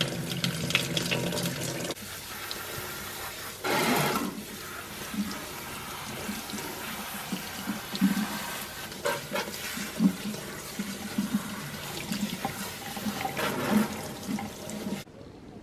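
Water running from a faucet into a sink while a child's hair is washed. The flow drops to a quieter stream after about two seconds, with a brief louder gush about four seconds in and irregular short splashes, and it stops abruptly near the end.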